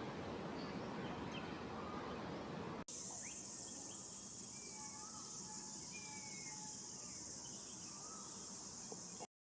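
Natural ambience with scattered short bird chirps over a low rumble. About three seconds in it switches abruptly to a steady high-pitched insect drone, with a few thin whistled bird notes over it. Near the end the sound cuts off suddenly.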